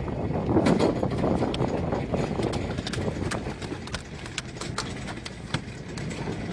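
Steady low rumble and wash of a small fishing boat underway, with irregular sharp clicks and knocks over it.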